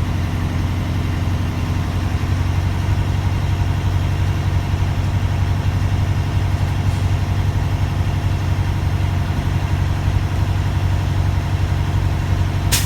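Truck diesel engine held at about 1500 RPM, running steadily while its air compressor builds brake pressure. Near the end comes one short, sharp burst of air: the governor cutting out at 130 psi and the air dryer purging.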